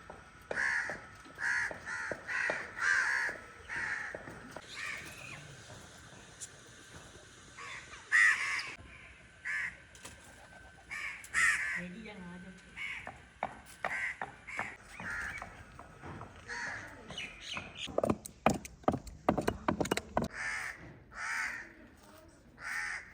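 Birds calling: a long run of short, repeated calls, paused now and then. A burst of sharp clicks or knocks comes about eighteen seconds in.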